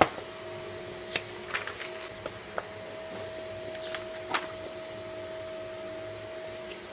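A steady mechanical hum holding two pitches, with a few short clicks and rustles of items being handled scattered through it.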